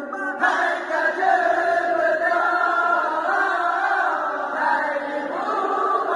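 Voices chanting together in a long, wavering melody that slides between held notes, as a pre-dawn sahur wake-up chant.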